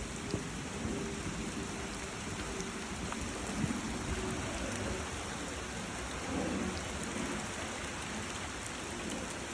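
A creek running high and fast after rain makes a steady rush of water with a low rumble, and rain falls on the woods around it.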